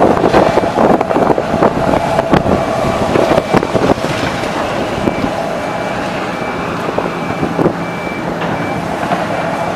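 Diesel demolition machinery running steadily, with repeated knocks and crashes of debris and a reversing alarm beeping at an even pace.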